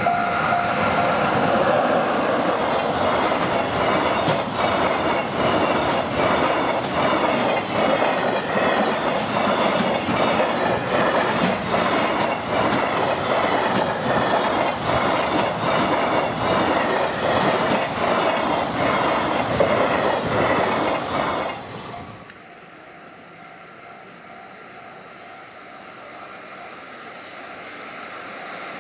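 A long train passing close by, its wheels clicking in a regular clickety-clack over the rail joints. The noise cuts off suddenly about 22 seconds in as the last car goes by.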